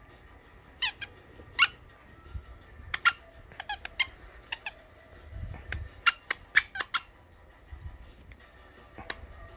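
A squeaky dog toy squeaking in short, irregular squeaks, about a dozen, some sliding down in pitch, as it is bitten and pulled in a game of tug. There are a few soft low thumps in the middle.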